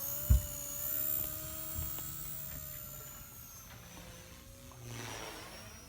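Blade Fusion 180 RC helicopter in flight: its electric motor and rotor give a steady high whine that wavers slightly in pitch and fades as it flies away. A single low thump comes about a third of a second in.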